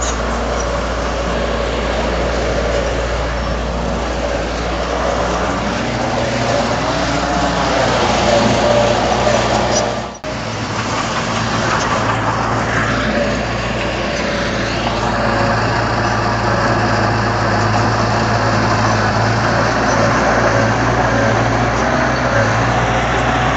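Komatsu D31 bulldozer's diesel engine running steadily under load, its pitch rising and falling as the machine works, with a brief break about ten seconds in.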